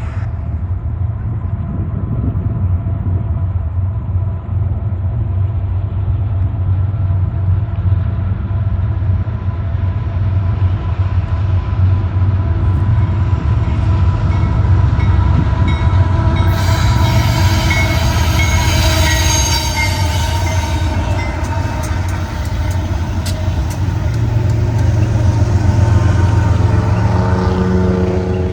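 Four Union Pacific diesel-electric locomotives running together, giving a heavy low rumble with a steady whine above it. Brighter rail and wheel noise joins a little past halfway.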